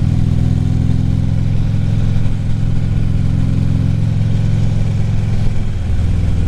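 Harley-Davidson V-twin engine running steadily as the motorcycle cruises. The engine note drops and changes near the end.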